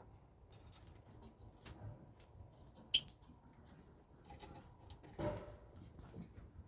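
Pet birds scuffling: light scattered clicks and scratches, one sharp tap about three seconds in, and a short low call a little after five seconds.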